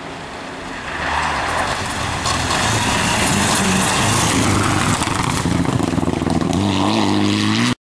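Rally car engine running hard as the car comes through the stage at speed, loud from about a second in, its pitch climbing through the gears near the end. The sound cuts off suddenly just before the end.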